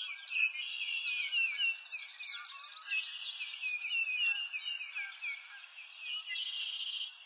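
Birds singing and chirping, a dense, continuous run of quick descending notes and trills overlapping one another.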